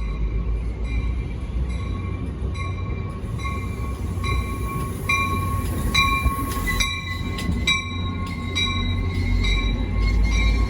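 New Jersey Transit Atlantic City Line train rumbling through the station, with its locomotive bell ringing in even strikes, roughly two a second.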